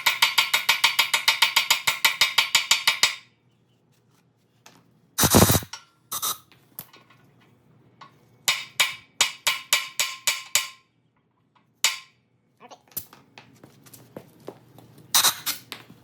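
Steel hammering as a frozen bushing is driven into the Bobtach pivot bore of a Bobcat T190 skid steer. A fast, even run of ringing metal strikes stops about three seconds in. Then come a heavy thump, a run of about four blows a second, and a few single knocks.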